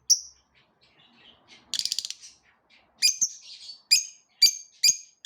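Lovebirds chirping: sharp, high single calls, with a quick rattling chatter of rapid notes about two seconds in, then a string of chirps about half a second apart in the last two seconds.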